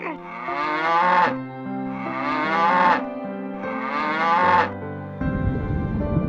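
A cow mooing three times, each call about a second long and rising in pitch, over background music. The music changes to a low rumbling texture near the end.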